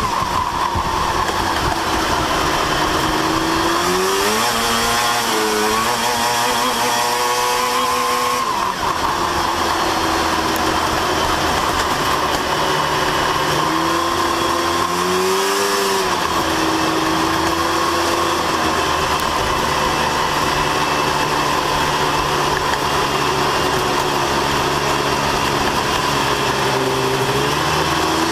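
Race truck engines running hard on a short oval, the pitch climbing and dropping several times as they accelerate and back off.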